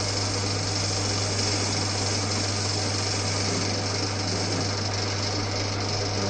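Old Winfield metal lathe running under its electric motor, with a steady hum, while the tool takes a turning cut on the workpiece.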